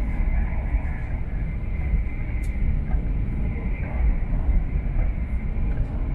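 Running noise inside the cabin of an E4 series MAX double-decker Shinkansen in motion: a steady low rumble, with a faint tick about two and a half seconds in.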